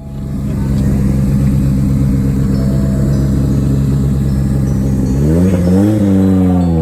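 A vehicle's engine idling steadily, then revved up and down a couple of times from about five seconds in.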